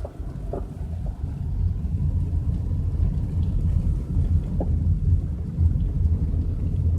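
Steady low rumble of a car driving on wet pavement, heard from inside the cabin, with a few faint ticks.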